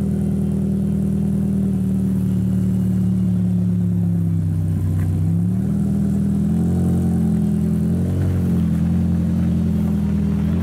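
Ferrari F40's twin-turbo V8 idling steadily. About five seconds in, the revs dip slightly and then rise, followed by two light throttle blips.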